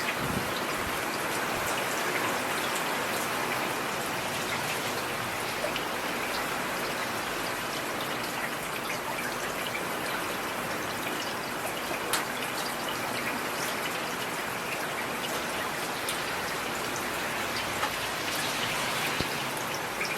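Steady rain falling on a street: a dense, even hiss with scattered drops ticking, and now and then a slightly louder drip or tap.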